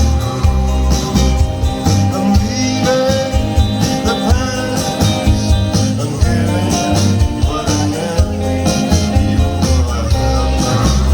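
A rock band playing live, with a lead vocal line sung over guitar, a strong bass and drums.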